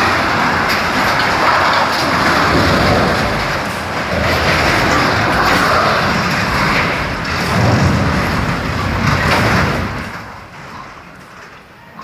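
Heavy vehicle running, a loud rumbling noise with a hiss, which fades away near the end.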